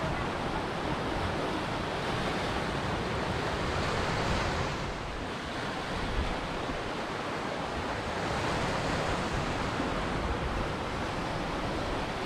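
Ocean surf breaking and washing on a shore: a steady rush of water that swells about four seconds in and again about eight seconds in.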